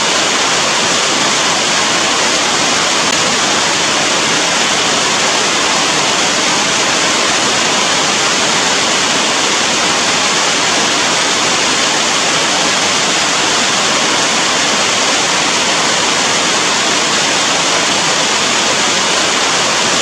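Steady rain, an even, unbroken hiss at a constant level with no single drops standing out.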